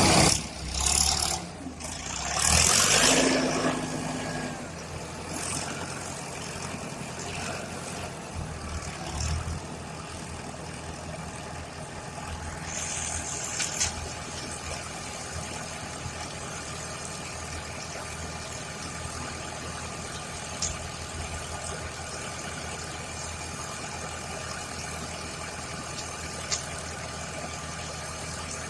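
Engine of a small 2 m³ concrete mixer truck running steadily at idle, after a louder rushing noise in the first few seconds. A couple of faint clicks come later.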